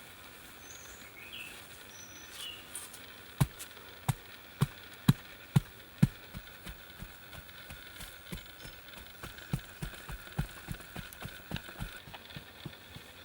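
A series of sharp knocks, like blows struck with a hand tool: six loud ones about half a second apart a few seconds in, then quicker, lighter knocks until near the end. A steady high tone runs under them, with a few short chirps near the start.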